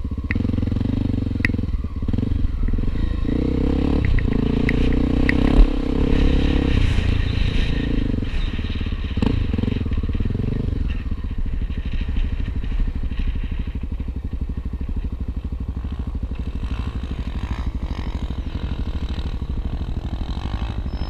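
Honda XR250 Tornado trail motorcycle's single-cylinder four-stroke engine running steadily, with rattles and clatter and one sharp knock about five and a half seconds in.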